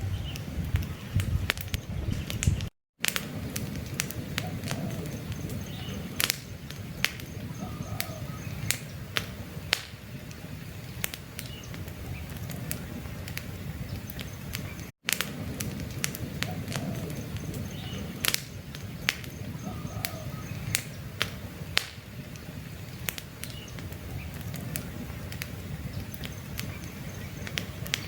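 Campfire burning: burning wood crackles in many sharp, irregular pops over a low steady rush of flames, with faint bird chirps behind. The sound drops out briefly about three seconds in and again about halfway through.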